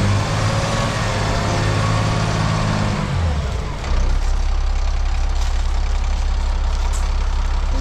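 Engine of a tracked off-road haul truck running at a higher speed, then its pitch drops about three seconds in and it settles into a steady lower run.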